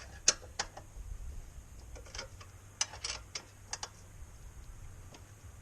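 Wrenches clinking on the motorcycle's rear axle nuts as they are loosened: a dozen or so sharp, irregular metal clicks, the loudest about a quarter-second in and around three seconds in.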